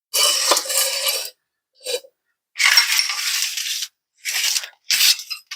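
Metal clanking and rattling in about five short bouts, the longest about a second, with a light metallic ring: a floor jack being rolled and set in place under the van.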